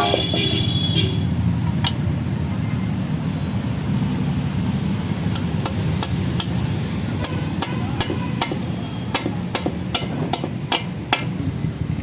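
Hammer strikes driving an NU 305 roller bearing into a Royal Enfield Classic 350 crankcase: one ringing metallic strike at the start, then, about halfway through, a run of about fifteen sharp taps, roughly two a second. A steady low hum runs underneath.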